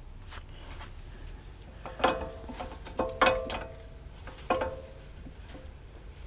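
Metal parts clanking together: four sharp clanks, each ringing briefly, starting about two seconds in.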